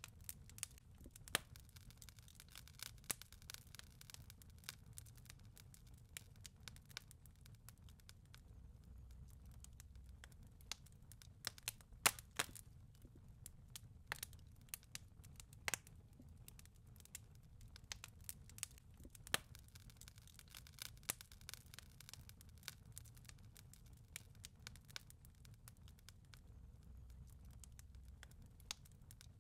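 Fireplace crackling: irregular sharp pops and snaps of burning wood over a faint low rumble, the loudest pop about twelve seconds in.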